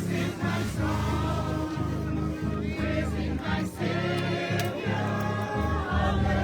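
A group of mourners singing a hymn together, sustained chorded notes changing every half second or so.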